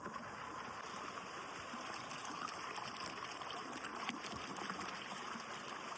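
A creek's water flowing and splashing over rocks in a steady rush.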